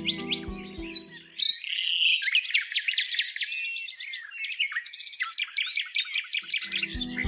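A chorus of songbirds chirping and singing rapidly over one another in quick high notes and sweeps. Soft background music under them drops away about a second and a half in and comes back near the end.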